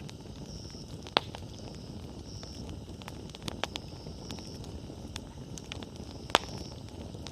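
Wood bonfire burning: a steady low rush of flames with scattered small crackles, and two sharp loud pops of burning wood, about a second in and again near the end.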